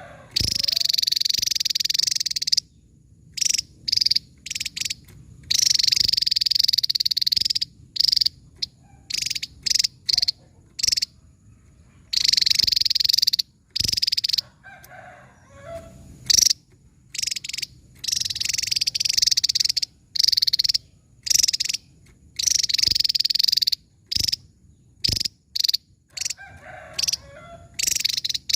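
Javan tesia singing: high trills of about two seconds each, alternating with runs of short, sharp separate notes, repeating over and over.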